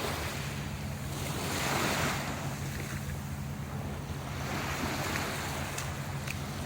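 Sea surf washing onto the shore, swelling twice, with wind rumbling on the microphone.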